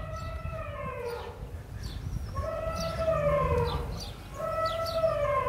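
Drawn-out animal calls, three of them about two seconds apart, each holding a pitch and then falling away at the end, with short high chirps above them.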